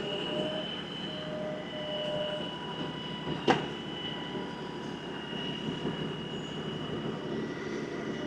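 LS XR315 compact tractor running under way, a steady engine drone with a thin high whine over it. A single sharp knock sounds about three and a half seconds in.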